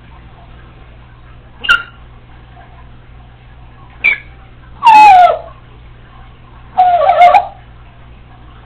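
Congo African grey parrot calling: two short high chirps, then a longer call that slides down in pitch and a rougher, whine-like call near the end.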